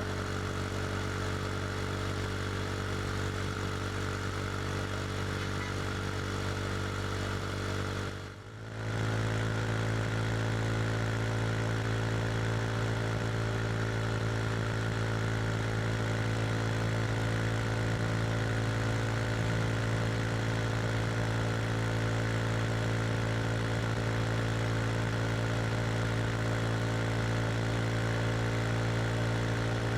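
KTM RC 390's single-cylinder engine through an SC Project slip-on exhaust, running at a steady, nearly constant engine speed while cruising. Its note briefly drops in level about eight seconds in, then carries on steadily.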